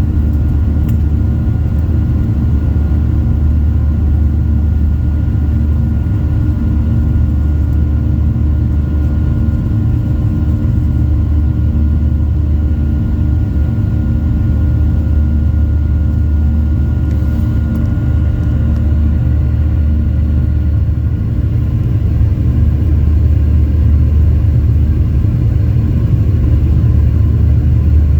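Airliner engines and cabin noise heard from inside the cabin while taxiing: a steady low rumble with a few steady tones over it, growing slightly louder in the last few seconds.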